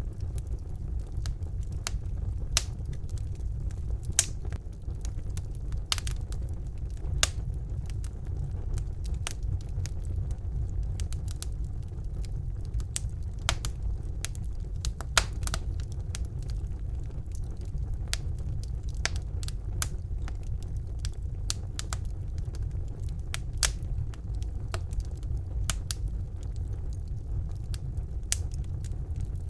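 Wood fire burning in a fireplace: a steady low rumble of the flames with irregular crackles and sharp pops from the logs, a few louder than the rest.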